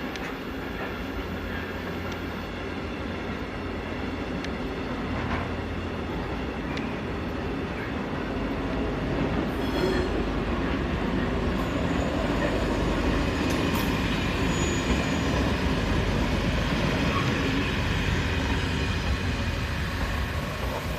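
Trains running past on station tracks: a container freight train rolling, then a CFL electric passenger train passing close by, the noise growing louder from about halfway and easing near the end. A brief high squeal of wheels on rail comes around the middle.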